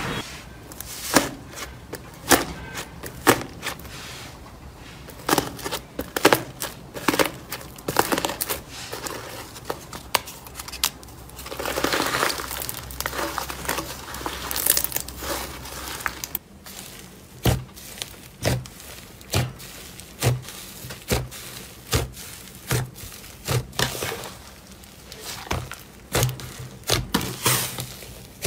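Slime being squeezed and poked by hand, with sticky crackling and popping clicks. About halfway through it settles into a rhythm of soft squishy presses, a little under two a second.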